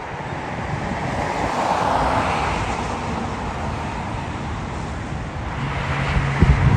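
Jet aircraft engine noise, a broad rush that swells about two seconds in, eases off, and builds again near the end, with wind buffeting the microphone.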